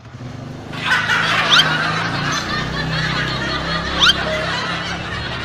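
Laughter that starts abruptly about a second in and runs on, with two short rising squeaks inside it.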